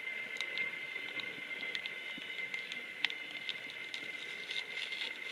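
Small crinkles and crackles of a chocolate bar's wrapper being carefully worked open by hand, over a steady high-pitched whine.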